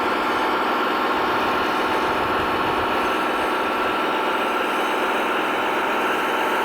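A radio-controlled construction vehicle running: a steady mechanical hum and whine with a few held tones.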